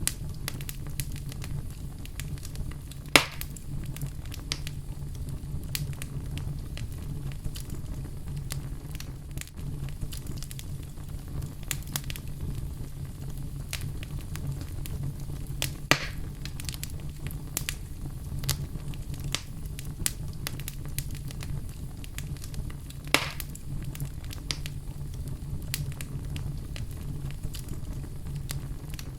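Wood fire in a fireplace crackling: a steady low rumble under many small sharp pops, with three louder snaps about 3, 16 and 23 seconds in.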